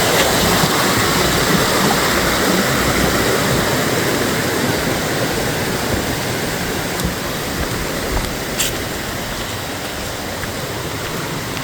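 Small waterfalls on a rocky river, the water rushing steadily over the stones.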